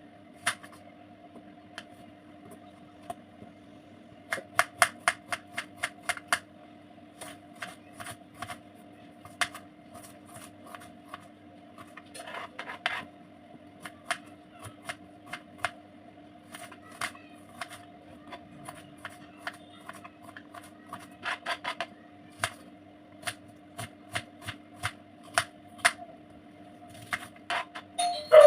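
Knife cutting an onion on a cutting board: sharp taps of the blade striking the board, some single and some in quick runs of several cuts, over a steady low hum.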